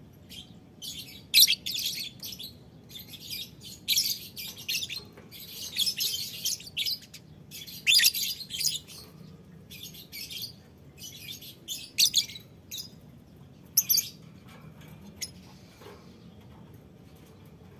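A colony of lovebirds chirping in quick, shrill bursts, many calls overlapping, thinning out to a few calls near the end.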